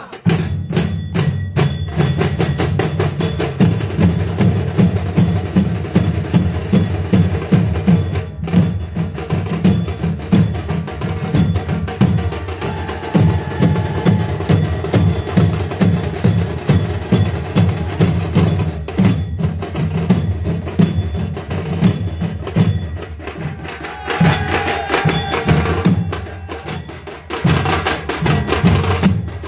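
Drums playing a fast, dense beat, with rapid sharp strokes over heavy low drum hits.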